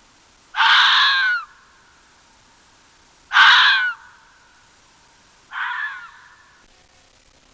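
An animal giving three harsh, caw-like calls about two and a half seconds apart, each under a second long, the third one fainter.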